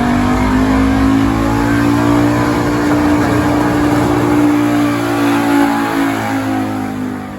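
Stock gasoline pickup truck engine at full throttle, under heavy load while pulling a weight sled. The engine note holds high and climbs slightly, then eases off near the end.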